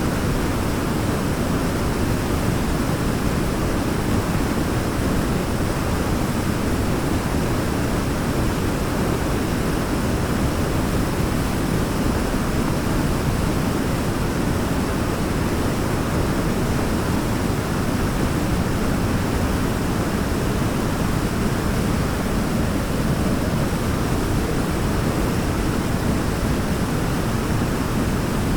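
Waterfall rushing steadily: an even, unbroken noise of falling water, heaviest in the low and middle range.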